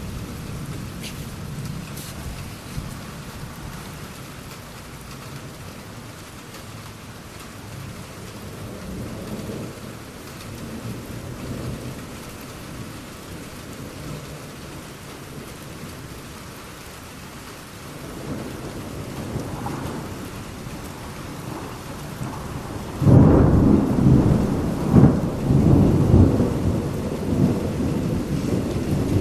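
Thunderstorm: low rolling thunder over steady rain, swelling in the second half, then a loud clap of thunder breaks near the end and rolls on in several peaks.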